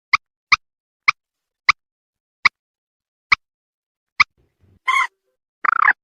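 Common moorhen calling: a series of short, sharp single notes that come further and further apart, then two longer, harsher calls near the end.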